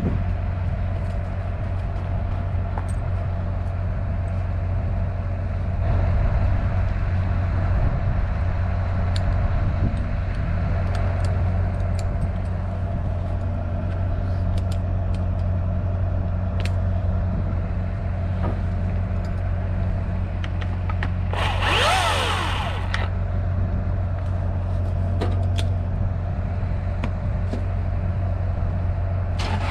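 A large engine idling steadily, with scattered light clicks and a brief loud burst of hissing noise about two-thirds of the way through.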